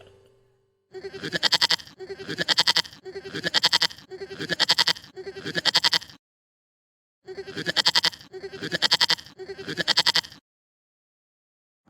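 Repeated bleating calls, each under a second with a quick quavering pulse, five in a row, a short pause, then three more.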